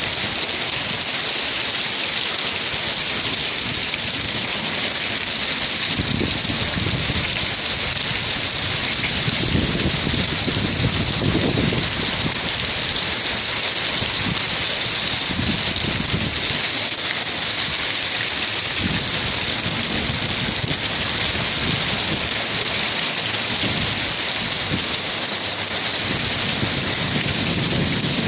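Heavy monsoon downpour: a loud, steady hiss of rain pouring down, with low rumbling that comes and goes.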